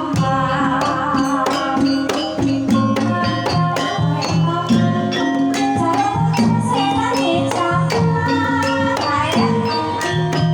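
Banyumasan gending tayub music: a Javanese ensemble of struck keyed percussion and drum playing a quick, steady rhythm, with a melody line that bends in pitch.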